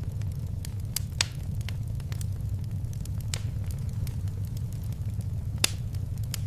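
Fireplace fire crackling: a steady low rumble of flames with scattered crackles and two sharper pops, one about a second in and one near the end.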